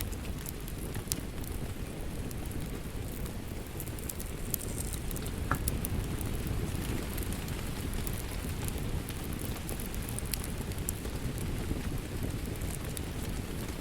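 Wood fire crackling in a fireplace: a steady low rumble of burning with scattered sharp pops and snaps throughout.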